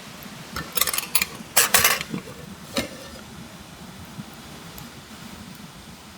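Metal camp cookware and utensils clattering and clinking: a quick run of strokes about a second in, a heavier burst just after, and a single clink near the three-second mark, over a steady background hiss.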